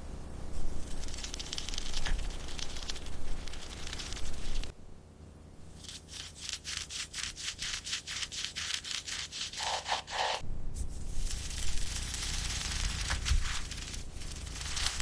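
Repeated rubbing and scraping strokes, with a quicker run of about five even strokes a second in the middle.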